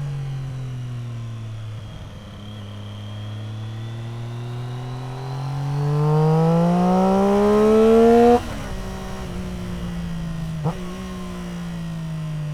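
Triumph Street Triple R three-cylinder engine through an Arrow exhaust, easing off, then accelerating hard with a steeply rising pitch before the throttle snaps shut about eight seconds in. A short sharp blip follows about two seconds later, then the engine note winds down.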